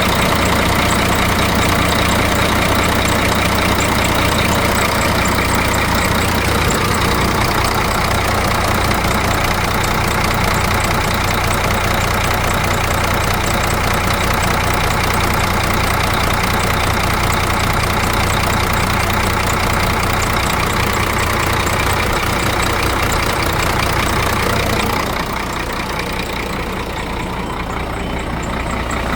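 Scania P114 truck's DC1104 inline-six diesel engine idling steadily; the sound gets quieter and thinner near the end.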